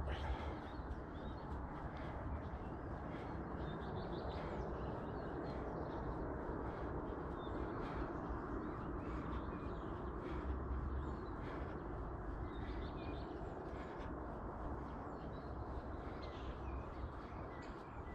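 Birds chirping and calling, short scattered calls throughout, over a steady outdoor rushing noise with a couple of low rumbles like wind on the microphone.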